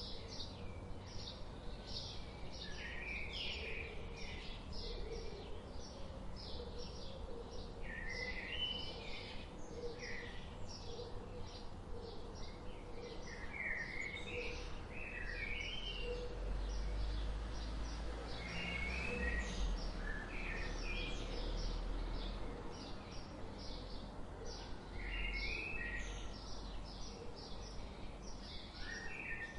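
Several songbirds chirping and singing over one another in a steady stream of short high notes and quick warbled phrases. A low rumble runs underneath, strongest about halfway through.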